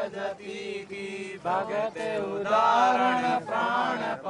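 A man's voice chanting in a sung tone, with long held notes, loudest a little past the middle.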